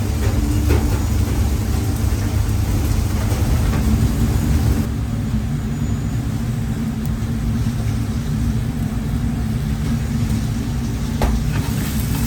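A steady low rumble, with a hiss above it that drops away about five seconds in and a faint click or two.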